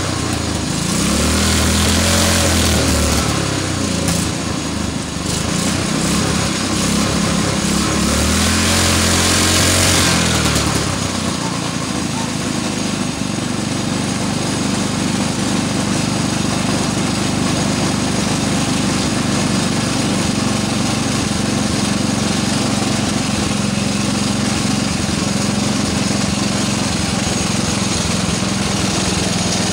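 Go-kart engine revved up and down twice in the first ten seconds or so, then settling into steady running at a constant speed.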